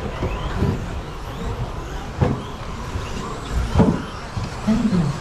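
Electric RC stadium trucks with 13.5-turn brushless motors racing on a carpet track: motors whining as they speed up and slow down, with two sharp thumps about two and four seconds in.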